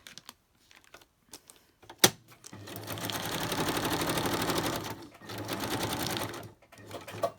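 Sewing machine stitching through layered paper and card in two runs of rapid, even stitching with a short pause between. A sharp click about two seconds in comes before the first run.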